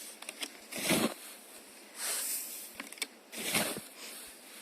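Snow being scooped and thrown onto the spent campfire site to smother the last embers, heard as three separate crunching swishes about a second apart.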